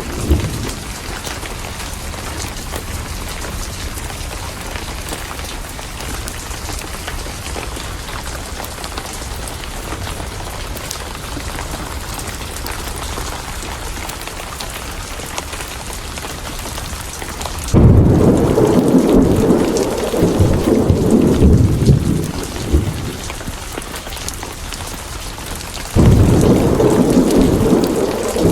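Steady heavy rain with two loud rolls of thunder. The first breaks suddenly about two-thirds of the way in and rumbles for several seconds before fading. The second starts abruptly near the end.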